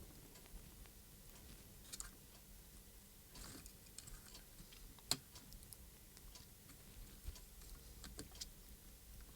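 Faint, scattered clicks and light taps of small parts being handled during the teardown of a radio-control transmitter. The sharpest click comes about five seconds in.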